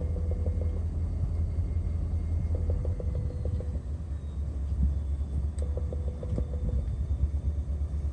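Deep, steady diesel engine rumble, typical of a freight locomotive running at low speed or idling close by. A short, rapidly pulsing tone sounds three times, about three seconds apart.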